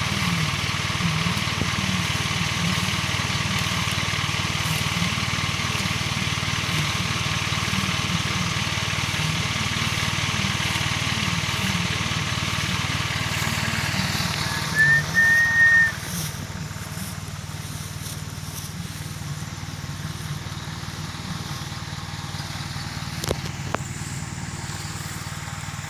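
Truck engine running steadily, then dropping to a quieter run about sixteen seconds in. Just before the drop a short, high whistle-like squeal sounds once, and a single click comes near the end.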